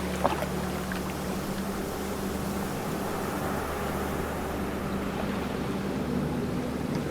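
Ocean waves washing steadily, with a steady low hum underneath and a brief click near the start.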